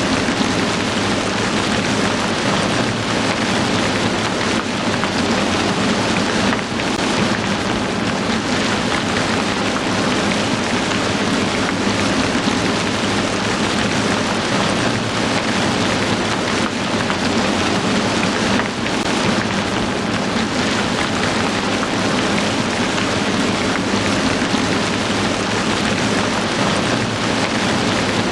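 Heavy rain falling steadily, a dense even hiss of rain on surfaces with no breaks.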